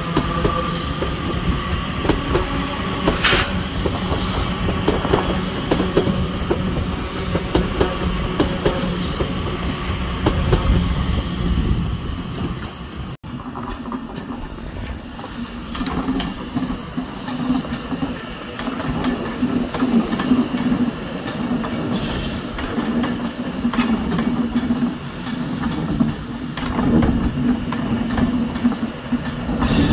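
Passenger trains moving through a station. First a Northern electric multiple unit runs along the platform, its wheels clicking over rail joints. After a cut, an Avanti West Coast Pendolino moves slowly past with a steady low hum and more wheel clicks.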